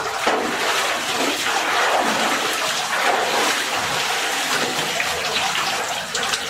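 Water pouring and splashing steadily.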